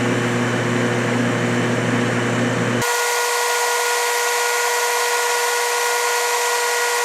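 Metal lathe running under power feed while taking a light oiled finishing cut in mild steel: a steady mechanical hum and whine. About three seconds in, the low hum cuts off abruptly, leaving a steady higher whine.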